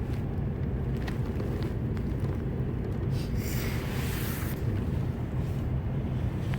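Steady low hum inside a Kyushu Shinkansen 800 series passenger car, with a brief hiss about three and a half seconds in.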